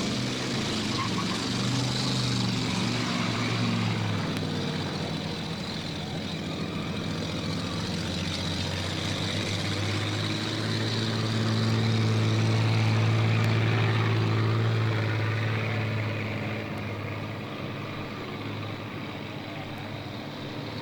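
Demolition derby car engines running and revving, the engine note shifting and swelling to its loudest about halfway through before easing off.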